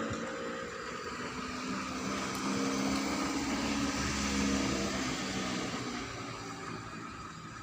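MAZ-103 city bus's diesel engine pulling away, rising in pitch for about four seconds, then easing off as the bus gathers speed, heard from inside the bus.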